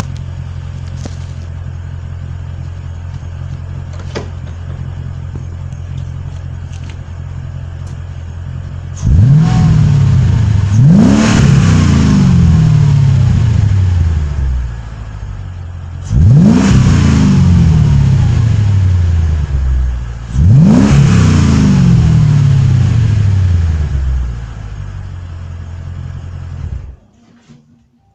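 Car engine running through a 76 mm exhaust: it idles steadily, is revved four times, each rev climbing quickly and falling slowly back to idle, then is switched off and cuts out about a second before the end.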